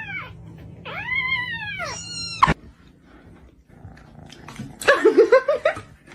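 A cat meowing: three long, drawn-out meows that rise and fall in pitch, the last cut off abruptly about two and a half seconds in. A lower, quickly wavering call follows near the end.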